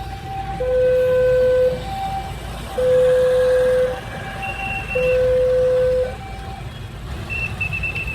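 Two-tone hi-lo warning signal, alternating between a low and a higher note about once a second, stopping about six and a half seconds in, over the low rumble of road traffic. A high, thin wavering tone sounds near the end.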